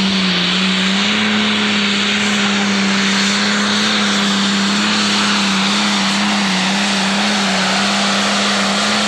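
Turbocharged diesel engine of a Pro Stock pulling tractor running at full throttle under load on a pull. It holds one steady, loud note that wavers slightly, with a wide rushing noise of exhaust and turbo above it.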